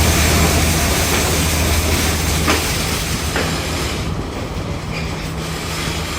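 Diesel multiple-unit express train running on the rails, a steady low engine hum under a rushing rolling noise, with two sharp clicks of the wheels over rail joints. The rushing noise thins after about four seconds.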